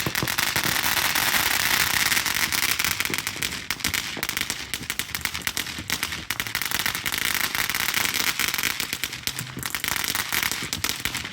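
Consumer fireworks going off: a steady hiss with dense, rapid crackling and popping, loud.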